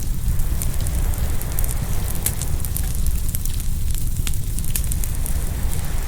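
Open wood fire crackling, with frequent sharp irregular pops, over a steady low rumble of surf waves.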